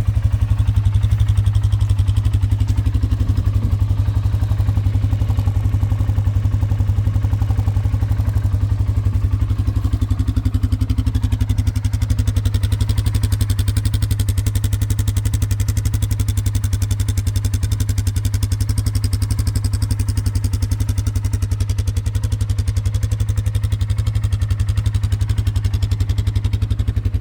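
2024 Polaris Sportsman 570's single-cylinder engine idling steadily through its stock exhaust, warming up from a cold start.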